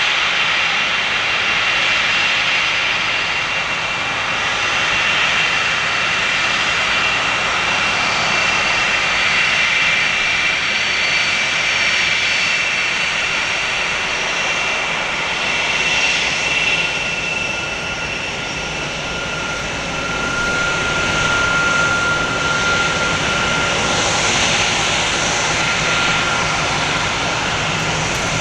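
Four jet engines of a Boeing 747-400F freighter running steadily: a continuous dense noise with high, steady whining tones, one of which stands out more clearly in the second half.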